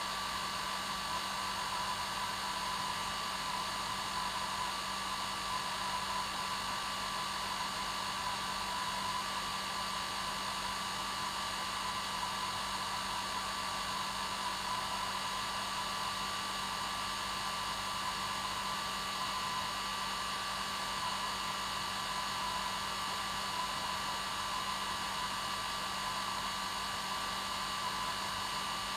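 Hair dryer running steadily, a continuous even hiss of blown air with a steady motor hum and whine that never changes, played as white noise to help a baby sleep.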